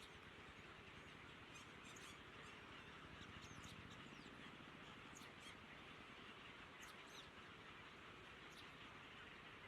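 Faint, short, high bird chirps, scattered irregularly over a steady low hiss.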